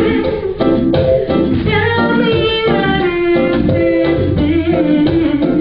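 A woman singing a love song over instrumental band backing.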